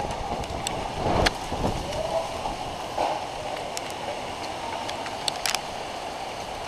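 Strong summer-storm wind gusting over the microphone, with low buffeting rumbles (heaviest about a second in) and scattered sharp ticks and raps.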